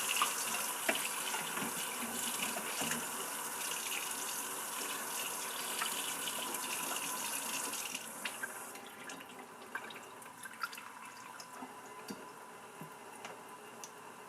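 Water running from a tap for about eight seconds, then shut off, followed by a few faint drips and light clicks.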